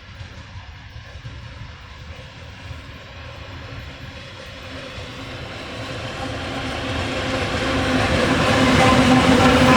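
ChME3 diesel-electric shunting locomotive running, its diesel engine drone with a few steady tones growing louder through the second half.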